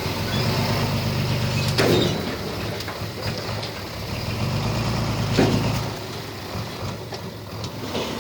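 Heavy diesel engine of earthmoving equipment running and swelling louder twice, with two short sharp noises about three and a half seconds apart.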